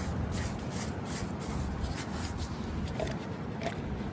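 Scrubbing strokes on an oily engine being cleaned with diesel fuel as a solvent, about two or three a second, thinning out after about two seconds, over a steady low rumble.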